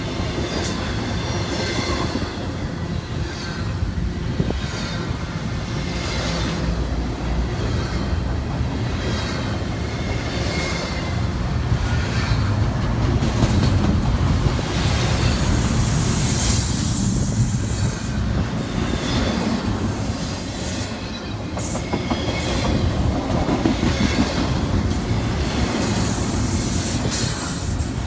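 Freight train cars rolling past with a steady rumble and a run of wheel clicks over the rail joints. High-pitched wheel squeal comes in around the middle.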